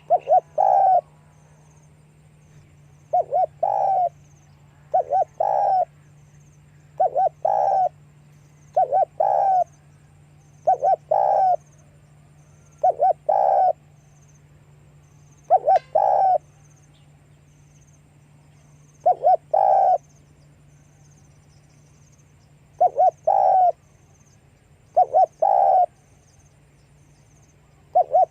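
Spotted dove cooing: short phrases of two or three low notes, repeated roughly every one to two seconds, with a couple of longer pauses. A steady low hum runs underneath.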